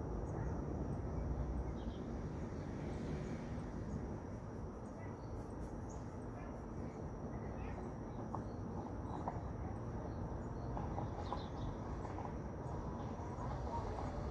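Outdoor nature ambience: a steady low background noise, a continuous high thin insect drone, and a few short bird chirps in the second half.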